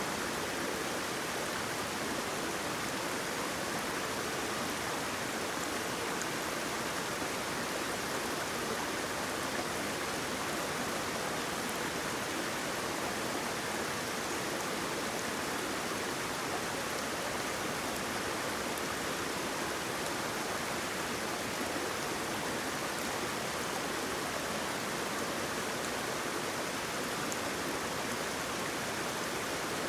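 Waterfall rushing steadily: an even, unbroken hiss of falling and flowing water with little deep rumble.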